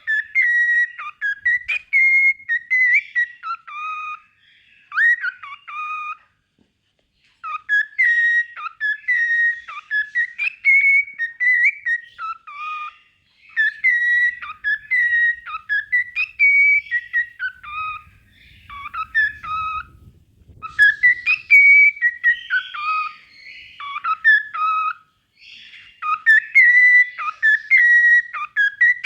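Cockatiel singing: runs of short whistled notes that rise and fall, broken once by a pause of about a second.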